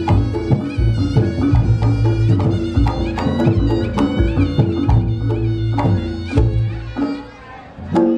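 Reog Ponorogo gamelan music: a wavering, reedy slompret melody over drum strokes and held gong and kenong tones. The music drops away briefly near the end, then the percussion comes back in.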